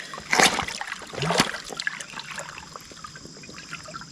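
Water splashing as a container is dipped into a fast-running stream to fill it, two louder splashes in the first second and a half, then the stream trickling with small drips.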